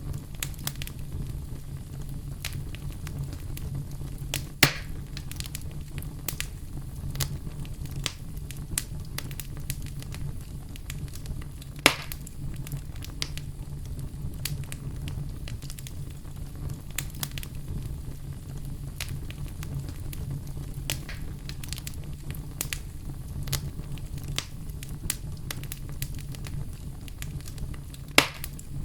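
Campfire burning with a steady low rumble of flame and scattered crackles and snaps of burning wood, with three louder pops.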